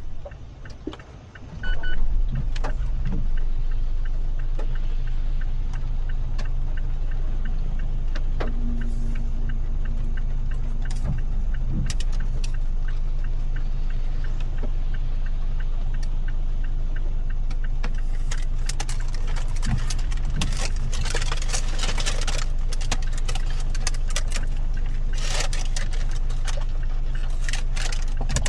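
A car driving in the rain, heard from inside: a steady low hum from the engine and road, with scattered raindrops ticking on the body and glass. In the last third the ticks thicken into a dense patter.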